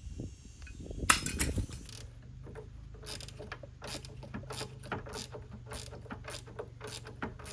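Ratchet wrench clicking in a run of separate clicks, a few per second, as bolts are turned, with a sharp metal clank about a second in and a steady low hum underneath.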